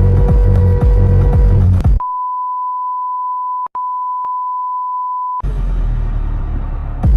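Electronic dance music with a heavy beat, cut off about two seconds in by one steady, high electronic beep that lasts about three and a half seconds with a brief break near its middle; the music then comes back, thin at first and at full strength near the end.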